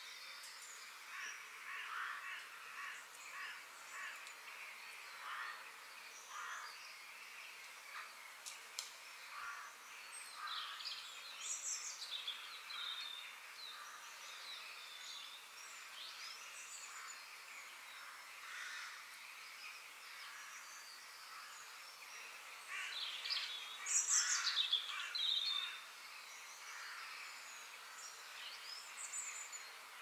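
Several wild birds chirping and singing over a faint steady hiss, in short calls and quick falling whistles, with the loudest burst of song about three-quarters of the way in.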